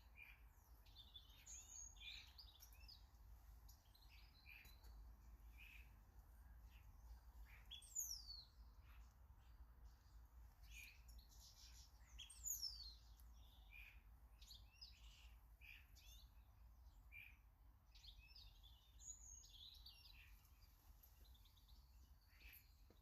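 Faint garden birdsong: a run of chirps and short calls from small birds, with two louder falling whistled notes about eight and twelve seconds in.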